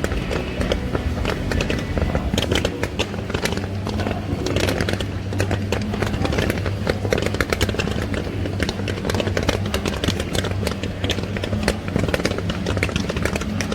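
Fireworks exploding in rapid succession, a dense run of sharp cracks and pops, over music playing.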